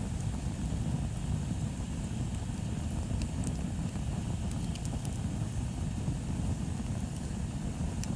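Bonfire burning, with a few sharp crackles and pops over a steady low rumble.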